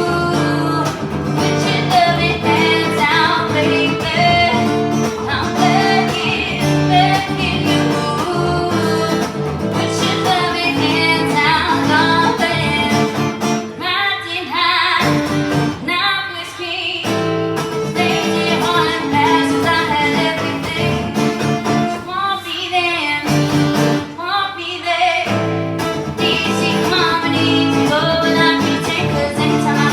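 Live music: a strummed acoustic guitar with a woman singing, a loose jam-style song; the guitar drops out briefly a few times in the middle.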